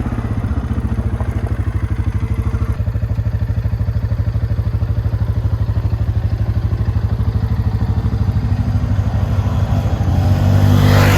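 ATV engine running steadily with an even low pulsing. About ten and a half seconds in, a louder engine sound rises in pitch and swells.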